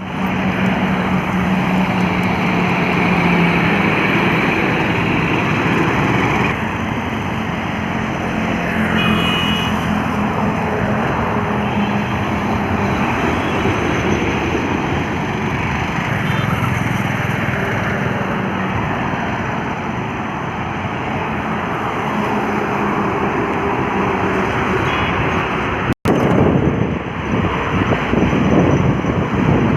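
Heavily loaded trucks driving past on a highway: steady engine drone mixed with tyre and traffic noise. The sound breaks off for an instant about 26 seconds in, then comes back louder with another pass.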